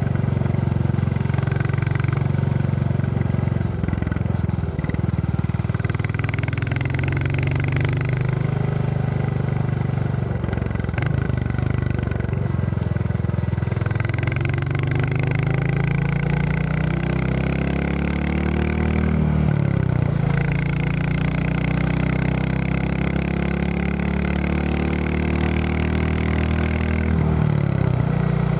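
Royal Enfield Classic 350's single-cylinder engine running on the move, heard from the rider's backpack. The engine note holds fairly steady at first. From about halfway it climbs in pitch, dips briefly, climbs again and falls off near the end.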